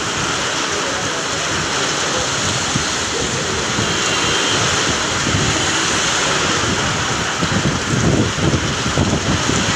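Heavy rain pouring down in a dense, steady hiss, with gusts of low rumbling on the microphone in the second half.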